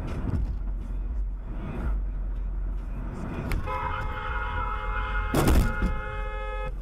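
Car horn held for about three seconds over steady road and engine noise, with a loud thump partway through the honk.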